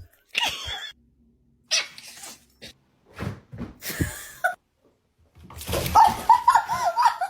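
A dog barking and yelping in several separate bursts, ending in a fast, loud run of calls.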